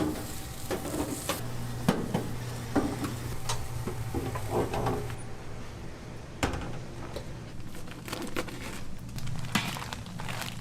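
Kitchen work sounds: scattered knocks and clatter over a steady low hum.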